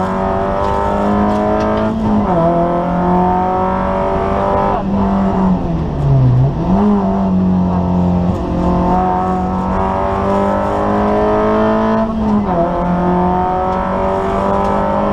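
Kia Picanto rally car's engine heard from inside the cabin at full stage pace, its revs climbing steadily and dropping sharply about two, six and twelve seconds in.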